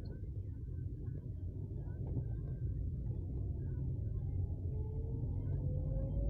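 Vehicle on the move: a steady low rumble, with an engine tone rising in pitch over the last few seconds as it speeds up.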